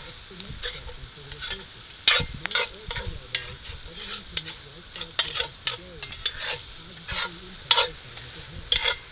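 Catfish fillets frying in butter in a pan, sizzling steadily, with a utensil scraping and clinking against the pan at irregular moments as the fish is stirred and turned.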